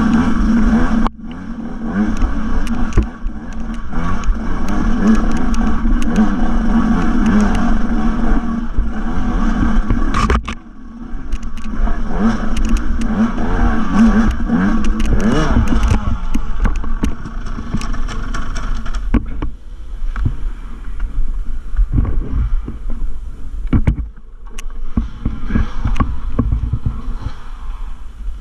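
Dirt bike engine revving hard under load on a trail climb, its pitch rising and falling with the throttle and cutting out briefly about a second in and again around ten seconds. In the last third the engine is quieter, with wind and repeated knocks and rattles from the bike on rough ground.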